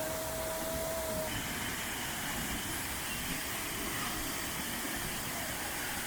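Waterfall rushing as a steady, even hiss of falling water. A thin whistling tone sounds over it for the first second or so.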